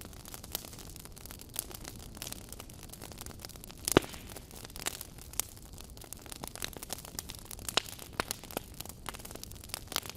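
Burning firewood crackling, with irregular snaps and pops over a low steady rumble; one sharp, loud pop about four seconds in.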